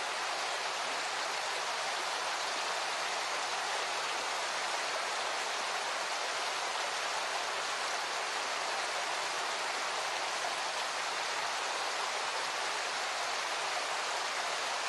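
Steady rushing water, an even unbroken hiss of falling or flowing water.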